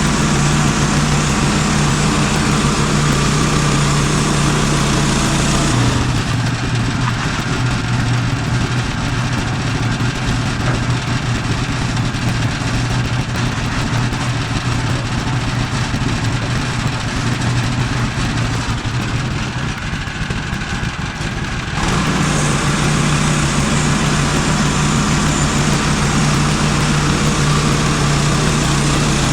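Small gas engine of a portable band sawmill running steadily. Its note drops lower from about six seconds in and comes back up about sixteen seconds later.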